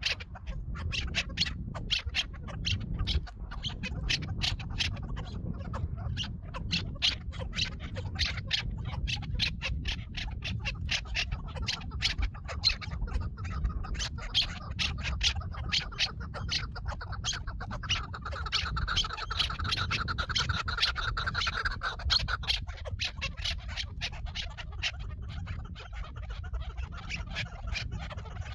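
Bird calling amid a dense, continuous run of sharp clicks and scratches, with a drawn-out call from about seventeen to twenty-two seconds in.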